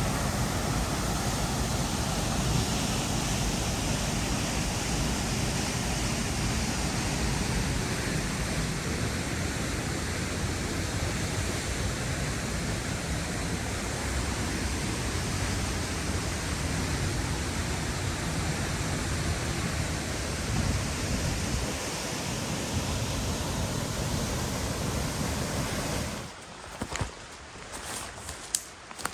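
River water rushing: a steady hiss of fast-flowing water. It cuts off abruptly about three seconds before the end, followed by a few sharp clicks.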